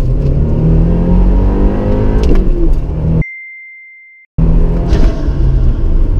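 Subaru WRX's turbocharged 2.4-litre flat-four accelerating hard, heard from inside the cabin, its revs climbing. The sound cuts out for about a second in the middle, leaving only a short steady beep. The engine then returns pulling at lower revs, as after an upshift.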